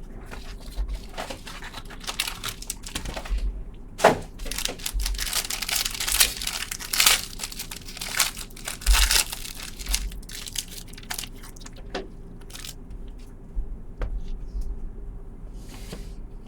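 Wrapper crinkling and tearing as a sealed box of trading cards is opened, in a run of irregular crackles with a few sharper snaps.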